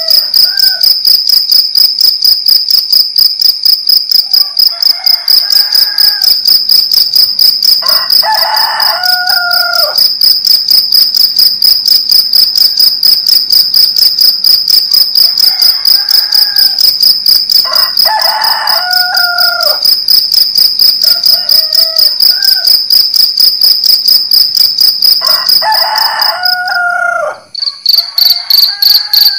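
Crickets chirping loudly and without a break, a high rapidly pulsing trill. Roosters crow about six times over it, three crows loud and close and the others fainter. The cricket trill cuts out briefly near the end and comes back slightly lower.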